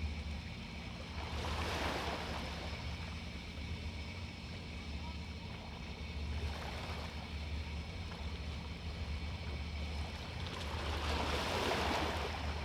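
Sea waves washing onto a beach. One wash comes about two seconds in, a smaller one near the middle, and the biggest near the end, all over a steady low rumble.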